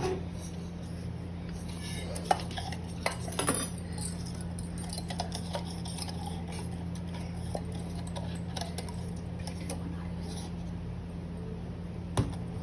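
A spoon stirring donut batter in a bowl, with irregular clinks and scrapes against the bowl, over a steady low hum.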